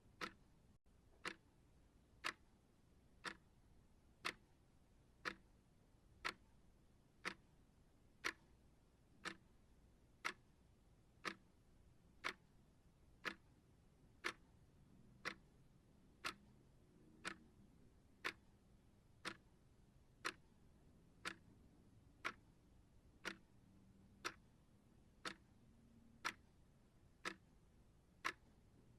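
Clock ticking steadily, one sharp tick every second, over a very quiet background.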